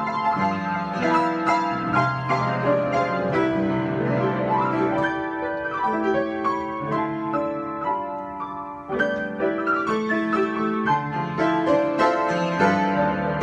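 Solo piano improvisation: chords in the left hand under a moving melody, easing off briefly about two-thirds of the way through and then coming back in fuller.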